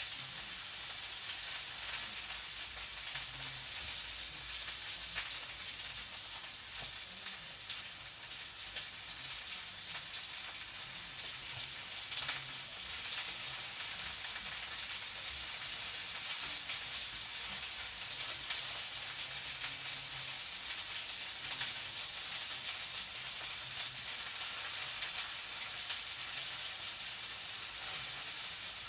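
Food frying in a pan: a steady sizzling hiss dotted with fine crackles, with a faint low hum underneath.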